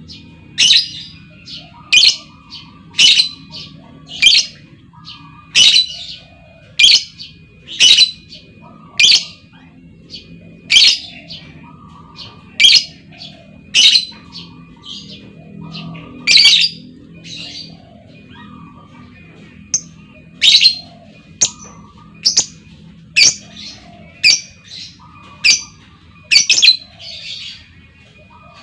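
Female lovebird giving sharp, shrill single calls about once a second, with a pause of a few seconds midway, the kind of call keepers use to lure other lovebirds into chattering.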